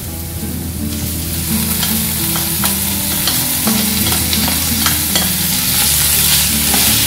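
Chopped vegetables (bell peppers, carrots, sweet corn) slide off a plate into a frying pan of hot oil and onions and sizzle. The sizzle grows louder about a second in, while the spatula scrapes and taps repeatedly against the plate and pan.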